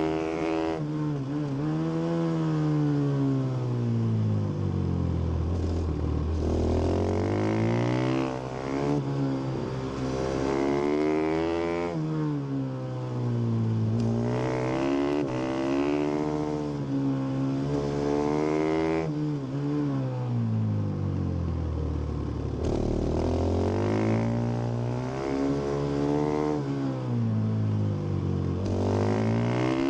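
2017 Husqvarna FS 450 supermoto's single-cylinder four-stroke engine on its stock exhaust, revving up and down over and over as the bike accelerates out of corners, shifts and drops back off the throttle for the next bend. Its pitch falls low four times and climbs again each time.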